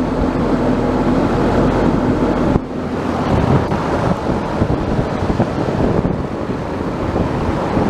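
2012 American Standard 4-ton central air conditioner condensing unit running: a steady rush of the condenser fan over a low compressor hum, with a brief dip about two and a half seconds in.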